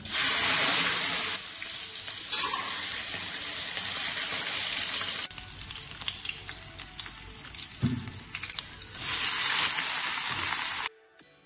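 Spice seeds and chopped red chilli dropped into hot oil in an aluminium kadai, sizzling loudly at once and then frying steadily. About nine seconds in, chopped leafy greens are tipped into the pan and the sizzle flares up again, then cuts off abruptly.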